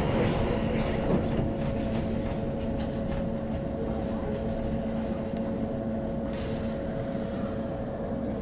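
Passenger train rumbling along the rails, heard from inside the carriage, with a steady hum under it. The sound eases off gradually as the train slows along a station platform.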